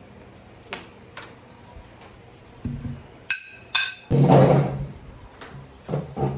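Tableware being handled: a few light knocks and clinks, some briefly ringing like ceramic, then a louder scraping rush about four seconds in.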